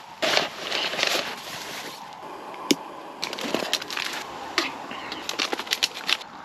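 Irregular rustling, crinkling and light clicks of camping gear being handled and packed up.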